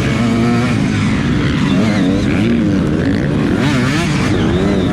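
Motocross dirt bike engines revving hard, the pitch rising and falling again and again as the throttle is worked around the track, with more than one engine running at once.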